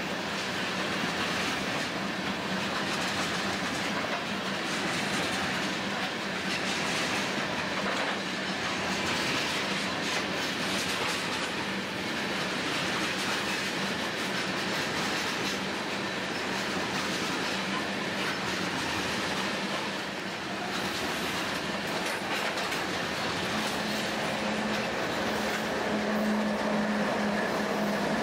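Loaded tank cars of a freight train rolling past at close range: steady rumble of steel wheels on rail with clickety-clack over the joints. Over the last few seconds a diesel locomotive's engine hum grows louder as it comes alongside.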